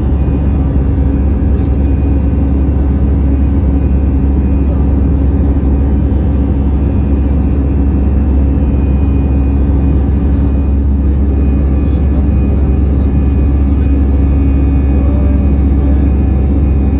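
Airbus A320 cabin noise: a steady, loud low rumble with a few steady humming tones over it, from the CFM56 engines and airflow.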